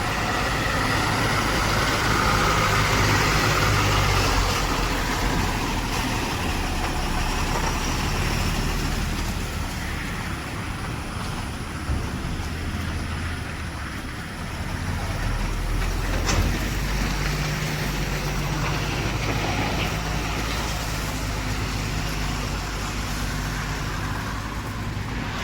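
Heavy diesel engine running steadily with a low drone, its note shifting a little about two-thirds of the way through, with a couple of short knocks.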